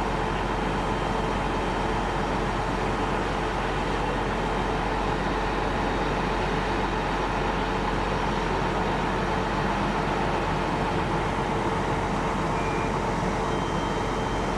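Fire truck's engine running steadily, a constant mechanical drone with a faint steady hum over it.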